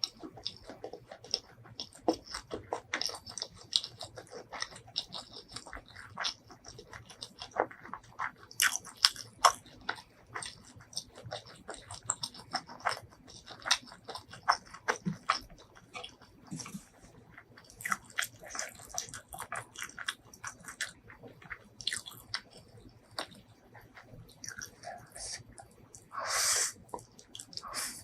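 Close-miked eating: dense, irregular crunching bites and chewing of crispy food, with one longer, louder noisy mouth sound near the end.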